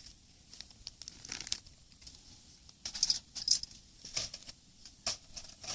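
Scattered crinkling and clicking, a few sharper clicks in the middle and near the end.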